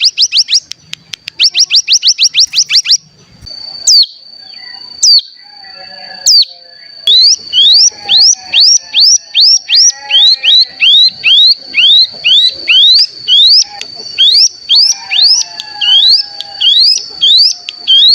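Ciblek gunung (cigun) song played as a lure track to set other cigun singing: a continuous high buzzing trill (the 'bren') with sharp rising chirps over it. The chirps come in a fast run for the first few seconds, thin out to two or three single ones, then repeat about twice a second from about halfway through.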